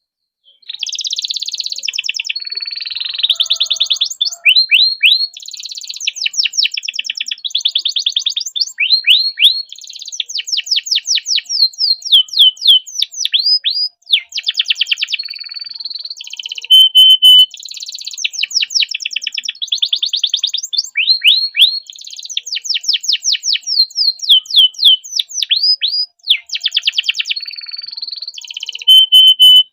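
Domestic canary singing a long, continuous rolling song of rapid trills and quickly repeated notes. It breaks off briefly twice, and two short held whistled notes come around the middle and near the end.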